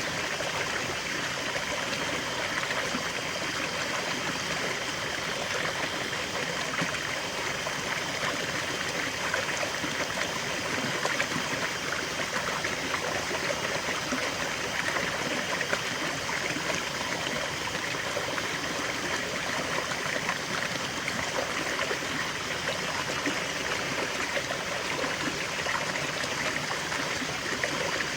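River water flowing steadily over stones, a continuous rushing and trickling with small splashes and no breaks.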